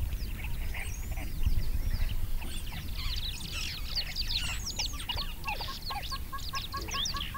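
Many birds calling at once, a dense mix of chirps and whistles. In the second half a short piping call repeats about four times a second. A low rumble runs underneath.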